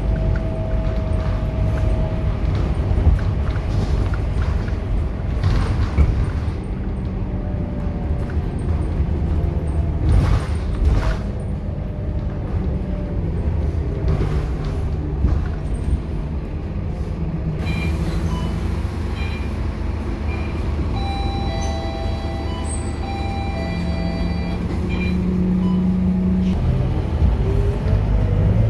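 Scania K230UB bus's five-cylinder diesel engine running under way with a steady low rumble, its pitch rising near the end as it pulls harder.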